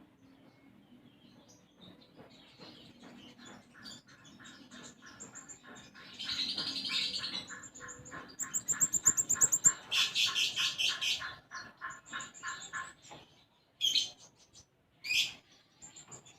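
A konin songbird singing: a fast even trill with rapid high chirps and twitters over it, loudest near the middle, then a few separate sharp calls near the end. The song carries sparrow-like chirps imitated from the tree sparrow.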